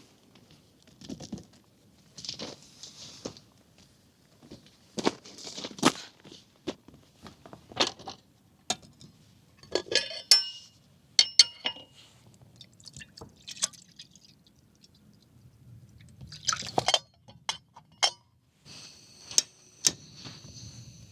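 Camp cookware and utensils being handled: a string of clinks, knocks and rustles, with two short metallic rings about ten seconds in. A steady high-pitched tone starts near the end.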